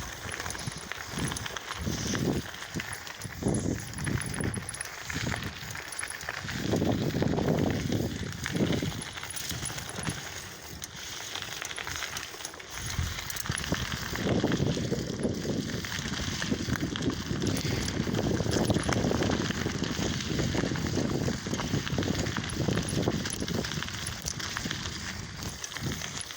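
Lowrider bicycle being ridden over rough, bumpy ground: steady tyre noise with rapid rattling and knocking from the bike, and low rumbling surges that come and go.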